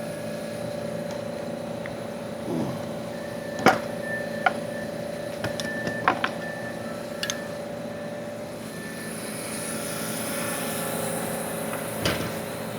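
Steady machinery hum with a constant tone, broken by half a dozen sharp clicks and knocks as tools and parts are handled during work on a replacement exhaust fan motor.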